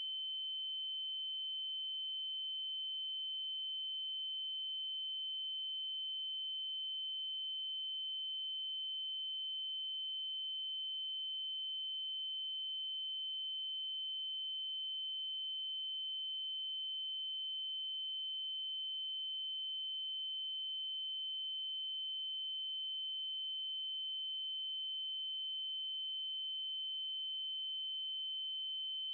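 A steady synthesized 3072 Hz triangle-wave test tone, one unchanging high-pitched note with faint overtones.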